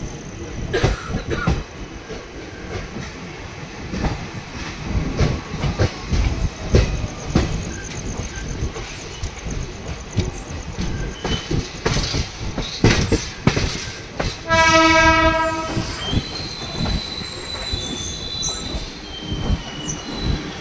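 Passenger train running, heard from an open coach door, its wheels clattering and clicking over rail joints and points. About fourteen and a half seconds in a train horn sounds once for about a second and a half, followed by a thin high squeal of wheels on the curving track.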